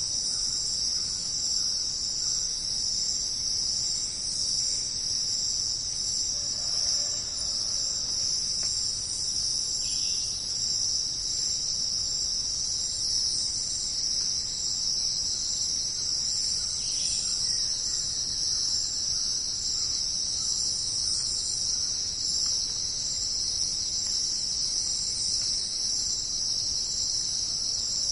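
A dense insect chorus, cricket-like, with a steady high-pitched trill that does not let up. Twice, a faint short call glides downward beneath it.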